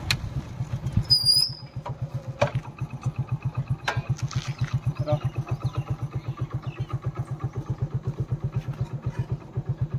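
Motorcycle engine idling with an even low pulse of about seven beats a second. Just after a second in there is a brief high squeal and a loud knock, and a few clicks follow.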